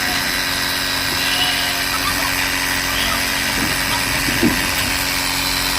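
Motorized sprayer's small engine running steadily with a constant hum while it pumps chemical out through a hose.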